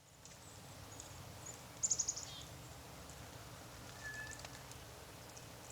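Small songbirds calling: a quick run of high, thin notes that drops to a lower note about two seconds in, then a short single whistled note about four seconds in, over a low steady outdoor rumble.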